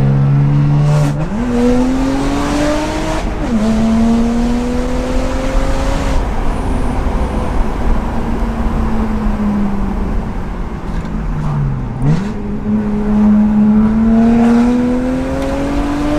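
BMW 135i's twin-turbo 3.0-litre straight-six on a straight-through exhaust with no catalytic converter, pulling under acceleration. The engine note rises, drops sharply at a gear change about three seconds in, climbs again, then sinks slowly for several seconds before dipping near twelve seconds and climbing once more.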